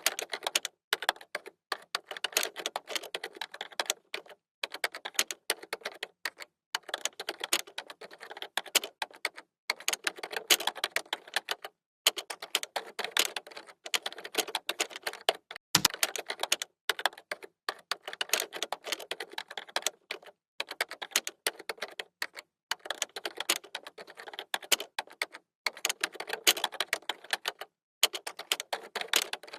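Computer keyboard typing: rapid key clicks in runs of a second or two, broken by short pauses. There is one dull thump about halfway through.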